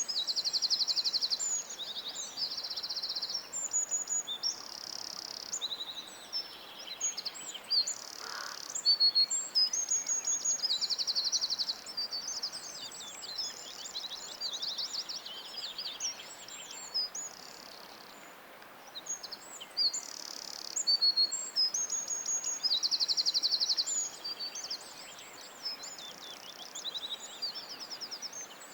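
Several songbirds singing over one another: high chirps, whistled glides and repeated fast trills, over a faint steady background hiss.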